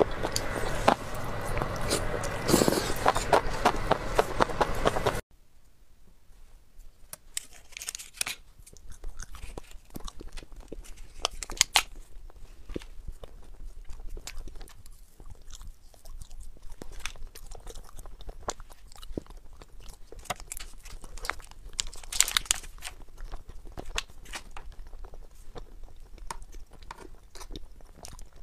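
Close-miked eating sounds: chewing and biting with wet mouth clicks. The sound is loud for about the first five seconds, then drops suddenly to quieter, scattered chewing clicks.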